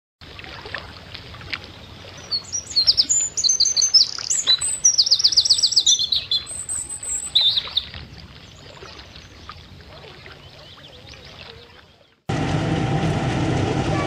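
A songbird singing quick runs of high, repeated notes and trills over a faint outdoor hiss. Near the end, a louder steady noise starts abruptly.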